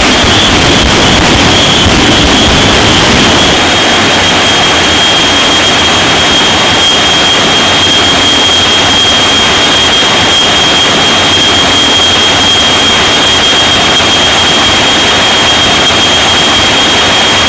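Jet-powered truck's jet engine running loudly and steadily: a dense rushing noise with a single steady high-pitched whine over it.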